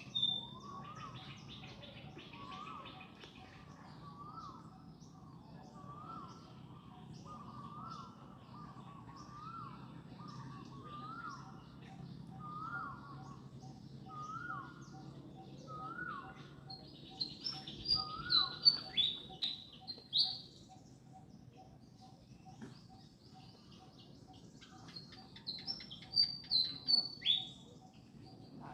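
Birds calling: a short call repeated about once every second and a half, then two bursts of louder, high-pitched falling chirps in quick succession.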